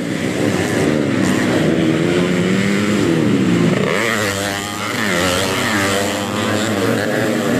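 Underbone motocross bikes racing: several small motorcycle engines revving up and down, their pitch rising and falling as riders open and close the throttle, with the sounds overlapping.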